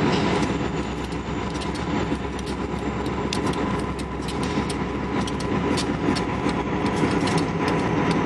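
Diesel locomotive engine running steadily, with a thin steady whine over it and many scattered sharp clicks.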